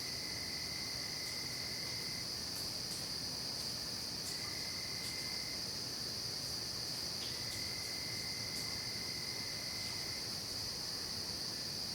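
Night chorus of crickets and other insects, a steady high trilling. A lower, thinner trill from another insect starts and stops three times, each lasting one to three seconds.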